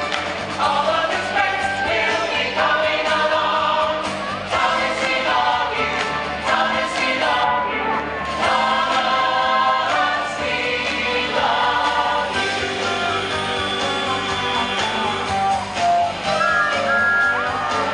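Stage-show finale song: several voices singing together over backing music.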